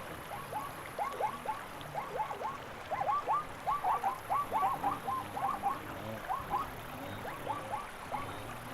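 A chorus of many short, rising croaking calls from a number of animals, overlapping irregularly and most crowded in the middle.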